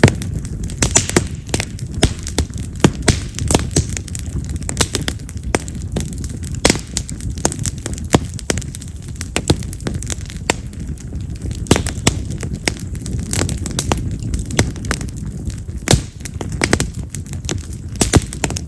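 Wood fire of split wild cherry (yamazakura) logs crackling, with frequent sharp pops, some like small firecrackers, over a low steady rumble of flame.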